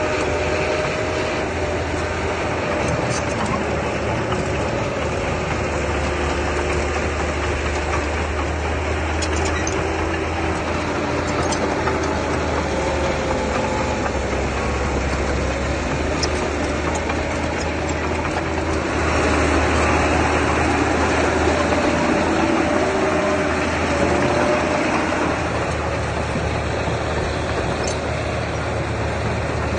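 Diesel engine of earthmoving machinery running steadily, getting louder for several seconds about two-thirds of the way through, with a few light clicks.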